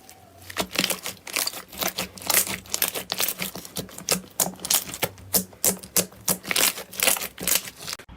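Slime being squeezed and worked by hand, giving a fast, irregular run of sharp crackling clicks and pops, several a second. It stops abruptly just before the end.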